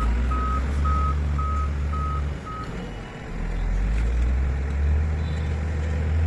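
Dump truck reversing: its back-up alarm beeps six times, about two a second, over the truck's engine running low and steady. The beeping stops about two and a half seconds in; the engine drops off briefly, then comes back up.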